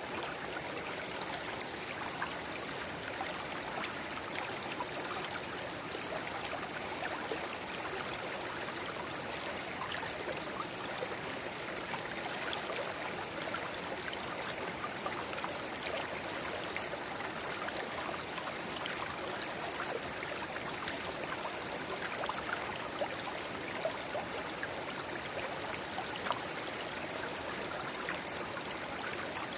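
Shallow river murmuring (seseragi), with a narrow spring-water rivulet trickling into it. A steady, even rush of water with many small splashes and droplets throughout.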